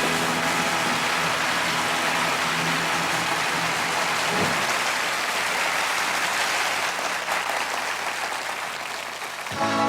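Concert audience applauding steadily after a song ends, easing off slightly toward the end. The band comes back in with horns just before it finishes.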